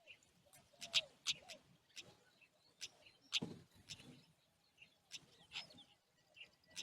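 Small birds chirping: short, high chirps at irregular intervals, about one or two a second.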